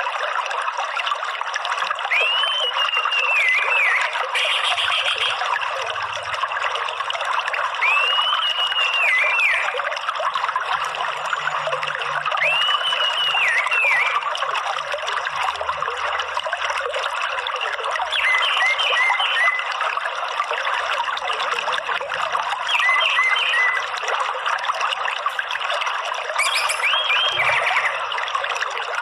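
Steady running water, with a bird's whistled notes over it: a few single arched whistles, then short quick series of notes.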